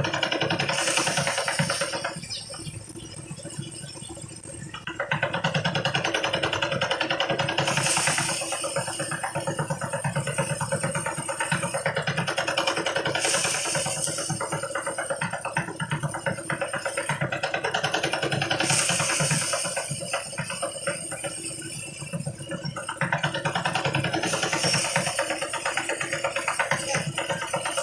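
Engine-driven harvest thresher running steadily, its sound dipping in level and swelling back up several times, about every five or six seconds.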